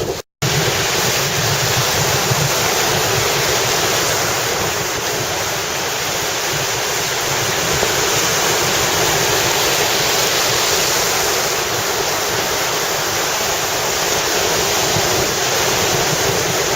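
Steady rushing of wind on the microphone mixed with surf, with a gusty low rumble. The sound drops out for a split second just after the start, then runs on unbroken.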